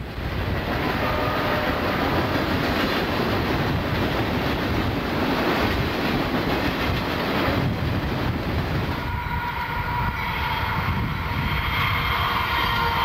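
Freight train cars rolling past close by with steady wheel noise and clatter. About nine seconds in this gives way to a diesel locomotive's horn, a chord of several steady tones held on, from an approaching train.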